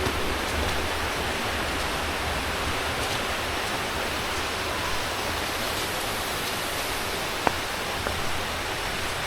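Steady rushing of river water, an even hiss with no let-up, and a single sharp click near the end.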